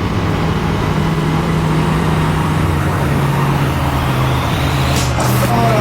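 Triumph café racer motorcycle engine running steadily while cruising, its pitch easing slightly lower about halfway through. Electronic music comes in near the end.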